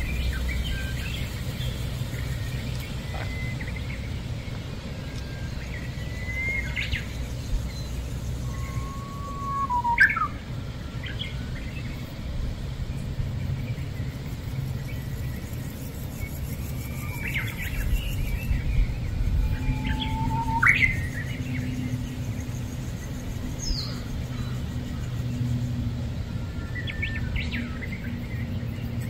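Birds chirping on and off, a scatter of short whistled notes and quick pitch slides, over a steady low background rumble.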